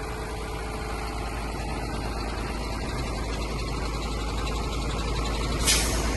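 Old diesel truck engine idling steadily, running sweetly. A short burst of hiss comes about five and a half seconds in.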